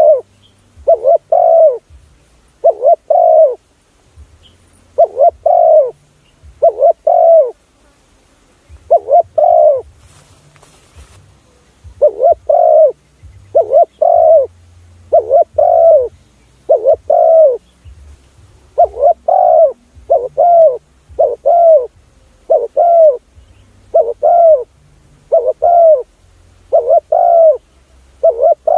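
Spotted dove cooing: a steady run of loud, arching coo notes, often in pairs, repeating about once a second. It is a recorded call used as a lure to draw spotted doves in.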